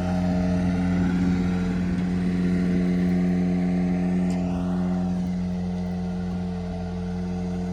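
An engine running at a steady speed: a constant low drone made of several steady tones that neither rises nor falls.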